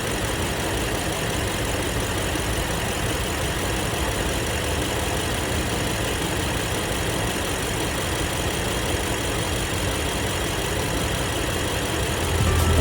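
2016 BMW X5 M's 4.4-litre twin-turbo V8 idling steadily.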